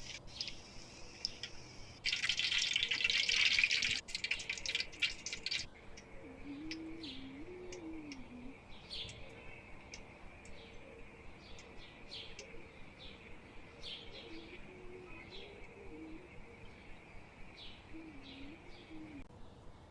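A short, loud hiss with clicks early on, then repeated short chirps, about two a second, typical of a bird calling.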